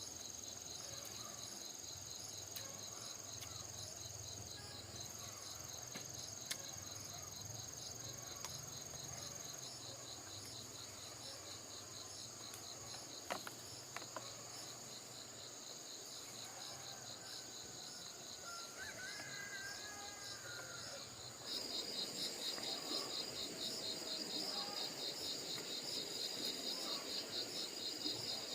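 Insects chirring without a break: a steady high whine with a fast, evenly pulsing trill beneath it. About three-quarters of the way through, the pulsing trill suddenly grows louder.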